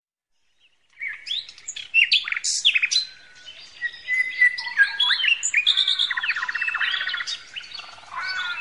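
Birds chirping and singing, several calls overlapping, with quick rising and falling whistles and a fast trill a little past the middle; it starts after about a second of silence.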